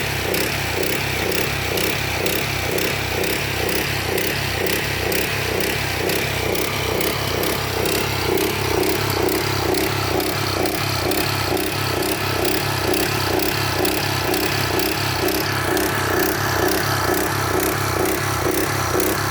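Engine running steadily at an even speed with a regular pulsing beat, driving the pump that fills the water tank.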